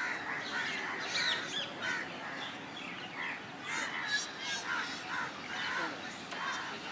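Many birds calling over one another, a dense chorus of short chirps and calls, with a quick run of repeated notes about four seconds in.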